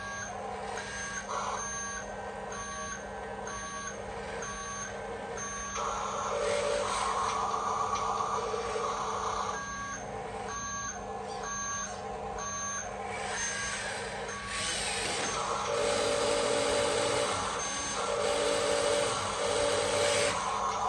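RC dump truck's reversing beeper sounding a regular run of beeps, about one and a half a second, over a steady hum and the truck's noisy running sound. The beeps stop for a few seconds past the middle and come back once near the end.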